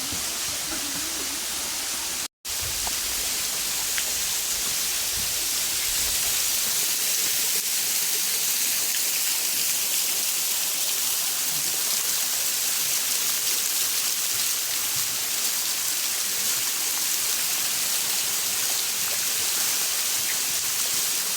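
Waterfall's rushing water, a steady hiss, cut off by a brief silent gap about two seconds in.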